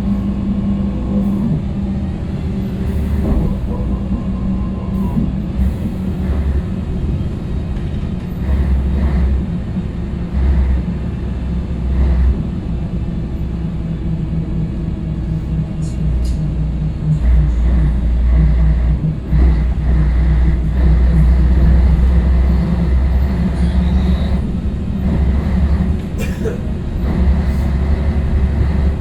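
Scania L113 city bus with its 11-litre six-cylinder diesel running while the bus is under way, a steady low rumble that swells louder a little past halfway through. There are light rattles and clicks over it.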